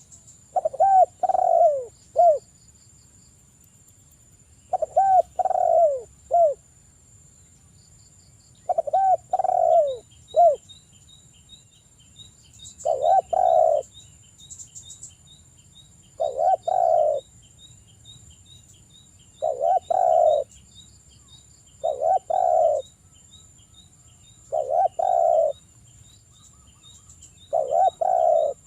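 Derkuku (island collared dove) cooing: a phrase of two or three low, loud coos repeated about every three seconds, nine phrases in all. A faint, rapid high chirping runs behind it from about a third of the way in.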